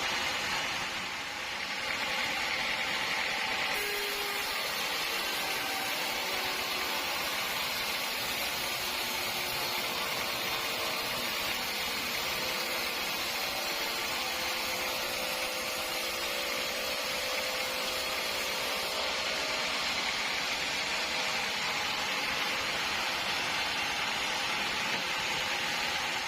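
Sawmill saw cutting a teak log, a steady noisy run with a brief dip in loudness about a second in.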